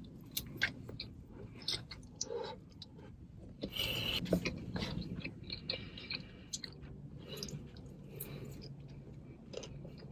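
Close-miked chewing of food, with scattered small wet mouth clicks.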